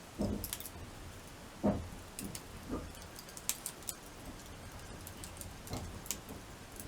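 Wood fire crackling in a crib-stacked campfire, with sharp pops scattered throughout and a few sudden low thuds.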